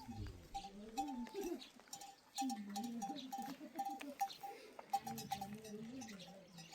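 A flock of small livestock bleating, with wavering calls, some drawn out for a second or more, over the repeated clinking of animal neck bells.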